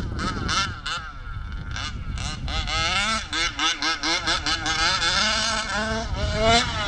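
HPI Baja RC car's small two-stroke petrol engine revving up and down, its throttle blipped many times in quick succession so the pitch keeps rising and falling.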